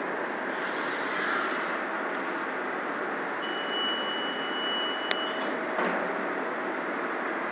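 Steady noise of a commuter train standing at a station platform, with a brief hiss of air about a second in. Midway a single high beep holds for nearly two seconds and is cut off by a sharp click, followed shortly by a softer knock.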